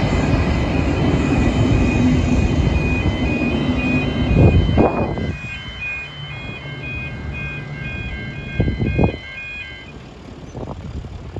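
A VLocity diesel railcar train rumbling over a level crossing, its wheel and engine noise dropping away about five seconds in as it moves off. Under it the crossing's electronic warning bells ring in a fast alternating two-tone pattern, stopping shortly before the end.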